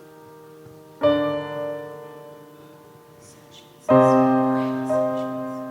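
Piano playing slow chords as a song intro. A chord is struck about a second in and another just before four seconds, each left to ring and fade, with a note change shortly after.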